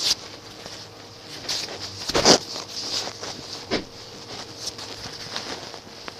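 Rustling of a rider working his hands into tight riding gloves, with a few scattered knocks and clicks; the loudest knock comes about two seconds in.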